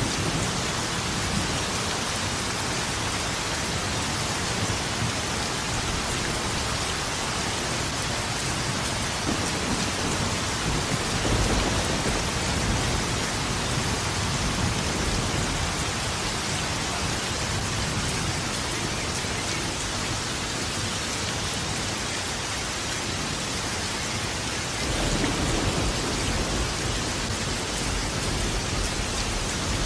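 Steady heavy rain falling, with low rolls of thunder rumbling underneath, swelling about eleven seconds in and again from about twenty-five seconds in.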